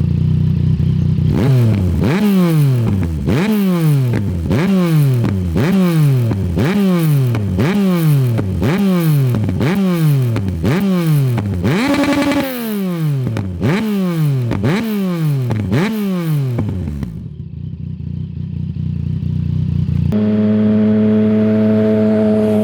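Yamaha MT-09 three-cylinder 850 cc engine through a Mivv Suono exhaust, revved repeatedly: about once a second the revs snap up and fall back, once held high for a moment around the middle. After a short lull the engine settles into a steady, even note near the end.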